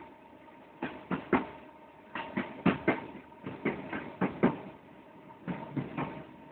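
Inside a Merseyrail electric train carriage in motion: wheels knocking over rail joints in clusters and pairs of sharp clacks, over a steady hum from the train. Heard through a phone's microphone.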